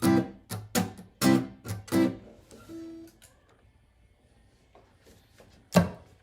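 Martin GPCPA4 acoustic-electric guitar strummed in a quick rhythm for about two seconds, followed by a single ringing note. Then it falls quiet, with one loud strum near the end.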